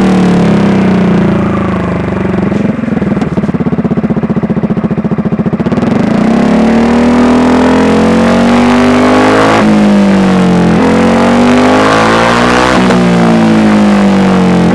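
Yamaha XMAX 250 scooter's single-cylinder engine through an RX8 full-system aftermarket exhaust with the dB killer removed, being revved. About two seconds in the revs fall to a choppy idle with the separate exhaust pulses audible, then the throttle is blipped up and let fall back several times.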